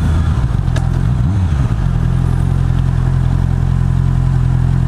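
Honda CB650R's inline-four engine on its stock exhaust, running at low revs. The pitch wavers briefly between one and two seconds in, then settles into a steady low note.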